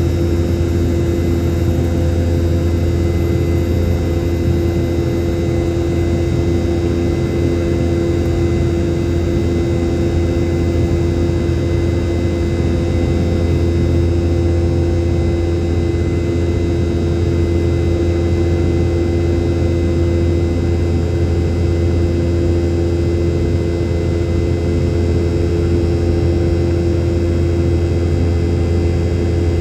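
Cabin noise of a Boeing 717-200 under way: its two rear-mounted Rolls-Royce BR715 turbofans running at a constant setting, a loud low rumble with several steady droning tones.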